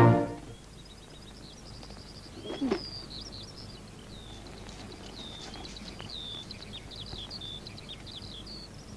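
Small songbirds chirping and twittering in many short high calls, with one brief lower sound about two and a half seconds in.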